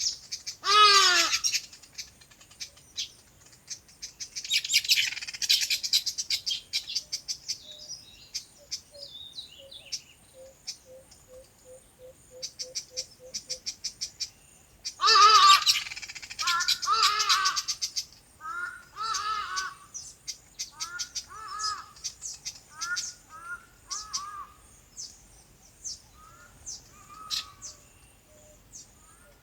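Several birds chirping and calling, with rapid high twitters throughout. One loud call comes about a second in and another loud burst of calls comes around the middle, followed by a string of short, evenly repeated calls.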